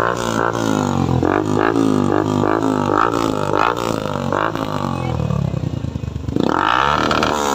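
Suzuki Gixxer's single-cylinder engine revved through a newly fitted aftermarket exhaust, in quick repeated throttle blips, with a deeper dip and a sharp rise near the end.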